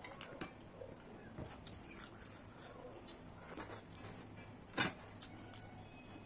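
Close-up eating sounds: mouth smacking and chewing, with fingers squishing rice and curry, as a string of small wet clicks, one sharper smack about five seconds in.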